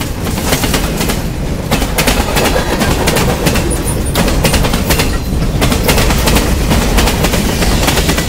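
Freight train rolling past close by: a steady low rumble of locomotive and freight cars, with frequent sharp clicks of the wheels crossing rail joints.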